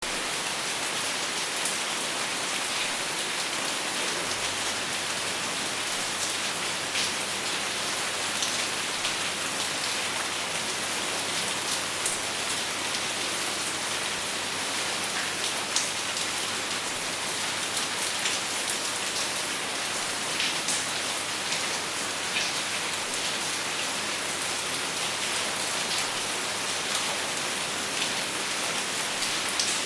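Steady rain without thunder: an even hiss with separate drops ticking sharply on a surface here and there.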